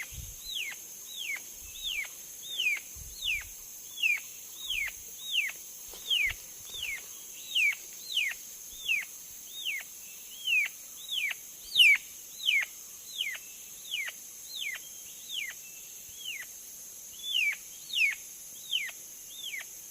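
A bird calling over and over with a short, clear whistle that slides steeply down in pitch, repeated evenly nearly twice a second, with a few faint low thumps in the first seconds.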